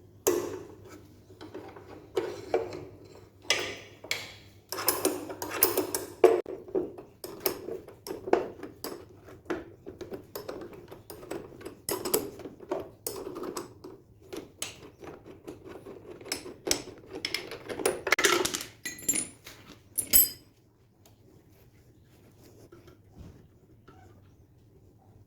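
Irregular clatter of hard objects, metal-sounding clicks and clanks at uneven intervals, as of tools or parts being handled. It stops about twenty seconds in and is followed by faint room sound.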